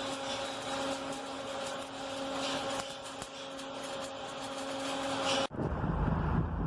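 Stick-welding arc crackling and sizzling steadily during a vertical-up weld, over a steady hum. It cuts off abruptly about five and a half seconds in, giving way to wind noise on the microphone and a low rumble.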